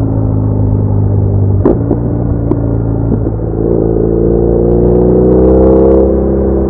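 BMW R1200R boxer twin engine running under way. A sharp click about 1.7 seconds in as the engine note steps down, then the pitch climbs slowly and grows louder as the bike pulls, easing off near the end.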